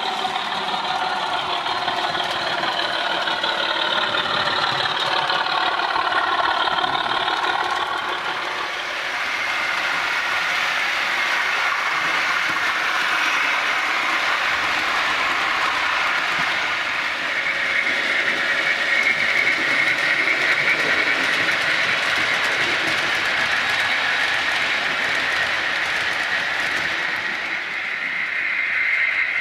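Model railway train running along the track on a track-cleaning run, its small electric motor giving a continuous whine with wheel noise. The pitch wavers for the first several seconds, then settles into a steadier, higher whine.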